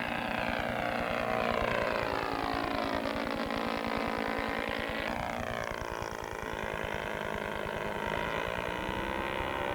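Twin O.S. Surpass 120 four-stroke glow engines of a large radio-controlled scale Douglas Dakota (DC-3) model flying by. The engine note shifts in pitch and drops sharply about five seconds in as the model comes around to land.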